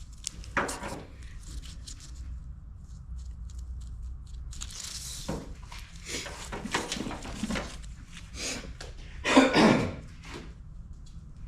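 Irregular rustling and handling noises as wiring and tools are worked by hand, with a louder burst about nine and a half seconds in.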